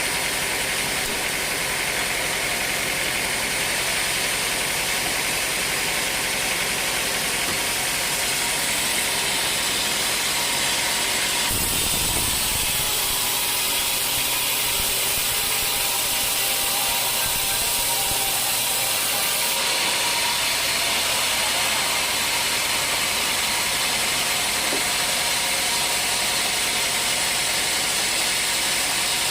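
Sawmill running with its saw cutting through dry old teak wood: a steady, even machine noise with a strong hiss. The sound changes abruptly about twelve seconds in and again about twenty seconds in.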